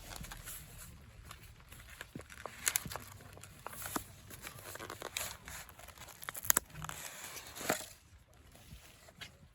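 Irregular crinkling and rustling, as of tent fabric or a gear bag being handled, with several sharp clicks and knocks spread through it, the loudest about two thirds of the way in.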